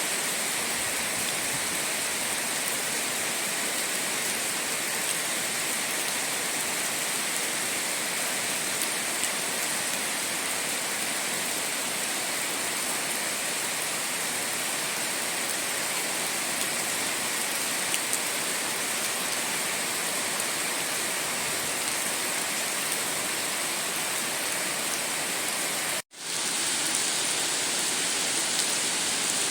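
Steady rainfall, an even hiss of rain. Near the end it cuts out for an instant, then starts again straight away.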